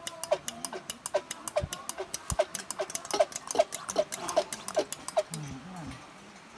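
Hand pump of a kerosene pressure lantern being worked fast, a rapid train of squeaky clicks at about five a second that stops about five seconds in.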